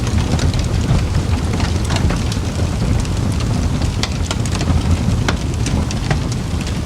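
Campfire burning with a steady low rumble and irregular sharp crackles and pops from the wood, several a second.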